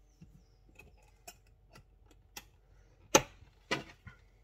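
Kitchen utensils and containers tapping and knocking while cornmeal is added to a bowl of crushed cornflakes: sharp, irregular clicks about twice a second, the loudest about three seconds in.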